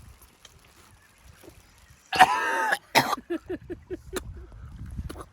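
A person gagging while eating fermented herring: a loud retching cry about two seconds in, a second sharp heave, then a quick run of short coughing, choking sounds.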